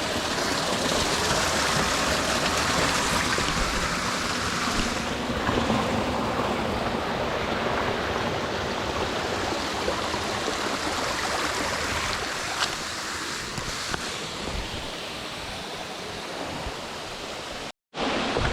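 Small creek cascades running over rocks: a steady rush and gurgle of falling water. It cuts out for a moment near the end.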